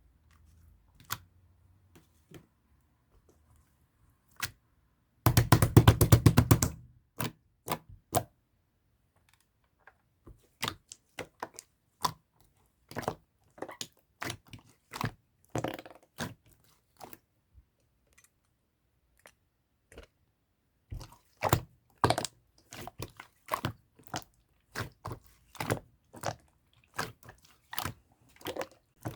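Pink slime being squished and pressed by hand, making sharp popping clicks, with a fast run of clicks about five seconds in.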